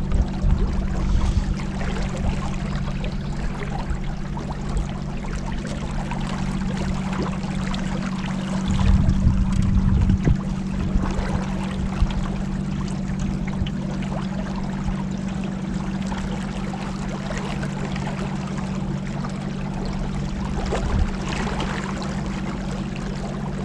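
Boat motor running steadily at cruising speed, a low even hum, with water rushing and splashing past the hull. About nine seconds in, a few seconds of heavier low thumping.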